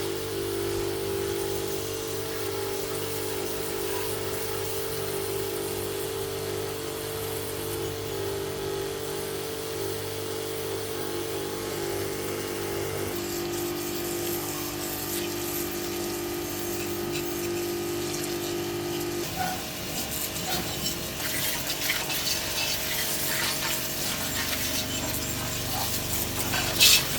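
A motor running steadily with a held hum. Its note shifts about halfway through and it stops about two-thirds of the way in, giving way to scattered clicks and knocks.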